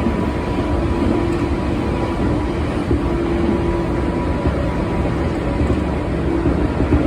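Running noise inside a JR Chuo Line electric train: a steady rumble of the wheels on the track with a steady hum over it.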